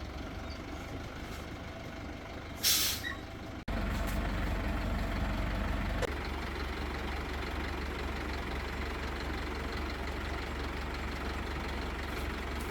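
Heavy diesel engine of a truck-mounted crane running steadily, with a short loud burst of air hiss about three seconds in. The sound breaks off abruptly just before four seconds, then the engine carries on a little louder.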